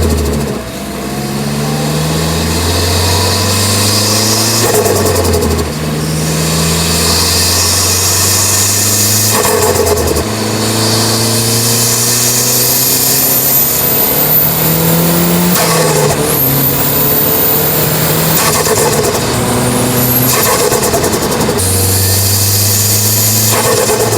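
Mazdaspeed3's turbocharged 2.3-litre four-cylinder pulling under boost, its pitch climbing and then dropping at each gear change, about five times, with a rush of air as boost is released at each shift and a faint rising turbo whistle.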